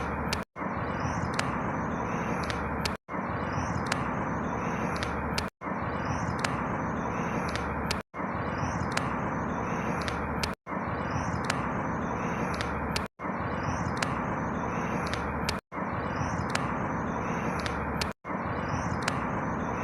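Outdoor ambience of a steady rushing background with a few small bird chirps, a short clip looped about every two and a half seconds, with a brief dropout to silence at each repeat.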